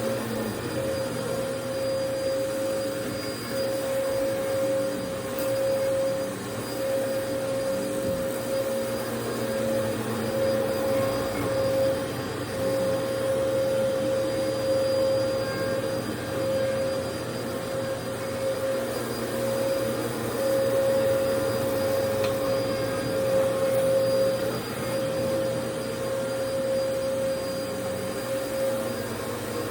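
Vacuum cleaner running, its motor whine holding one steady pitch over a rush of air while the loudness swells and dips.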